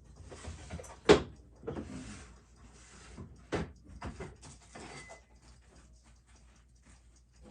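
Handling noise on a watchmaker's bench: rustling and scraping with a few sharp knocks, the loudest about a second in and another about three and a half seconds in. Faint ticking of the running watch on the timing machine continues underneath.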